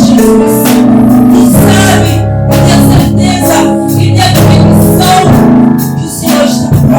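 Live gospel worship music: a band with keyboard and bass, with singing.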